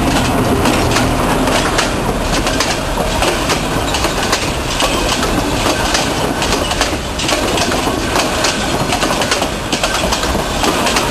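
Narrow-gauge passenger train's carriages rolling past at close range, their wheels clicking over rail joints in a steady clatter, with a low engine drone fading out about a second in.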